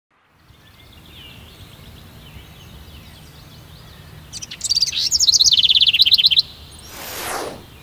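Birds chirping, with a loud, rapid trill of chirps about halfway through that cuts off suddenly. Near the end a swoosh sweeps downward in pitch.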